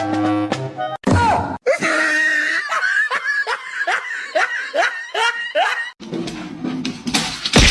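A person laughing in a rapid run of short falling 'ha's, about two or three a second for some four seconds. Cartoon-style music plays briefly before it and comes back after.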